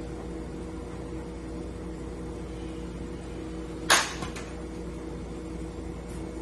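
Steady mechanical hum with one sharp knock about four seconds in, followed closely by a fainter one.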